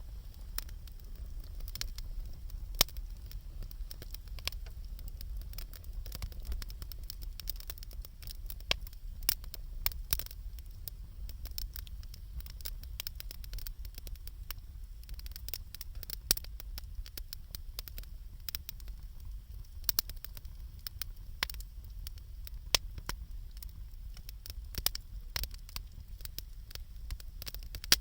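Wood bonfire crackling, with irregular sharp pops and snaps and a few louder cracks scattered through, over a low steady rumble.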